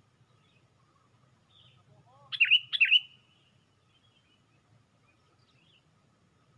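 Sooty-headed bulbul (kutilang) calling: two loud short phrases in quick succession about two and a half seconds in, with faint chirps around them.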